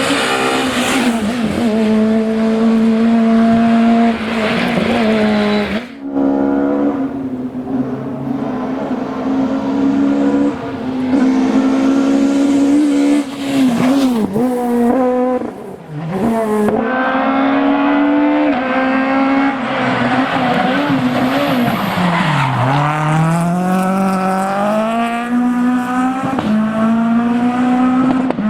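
Peugeot 206 Maxi Super 1600 rally car engine at high revs, the pitch climbing through each gear and dropping sharply on shifts and lifts, with one deep drop and climb back up about two-thirds of the way through. It breaks off abruptly a couple of times as one pass gives way to another.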